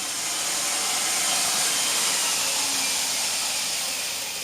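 2x72 belt grinder running on its 3,480 rpm motor: a steady rushing hiss from the abrasive belt that eases off near the end.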